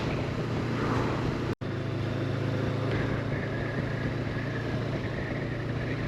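Honda CB500X's parallel-twin engine running steadily at cruising speed, a steady low hum mixed with wind and road noise. The sound drops out completely for an instant about a second and a half in.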